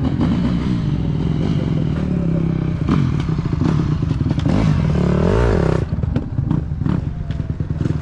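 Motorcycle engine running under way, its pitch swelling up and back down about five seconds in, with scattered clatter.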